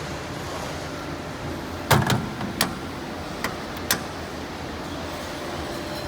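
Steady low machine hum, with a cluster of knocks and clatters about two seconds in and two sharp clicks a second or two later.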